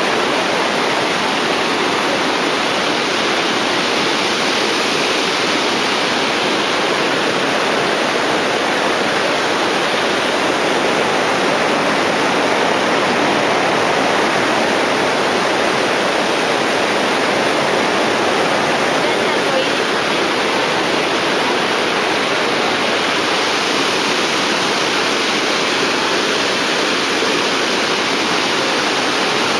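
Iguazu Falls: the steady, loud rush of a massive waterfall.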